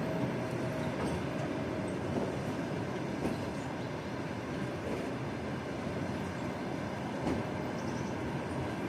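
Passenger train passing through a station without stopping: a steady rumble of wheels on the rails, with a couple of sharp clicks.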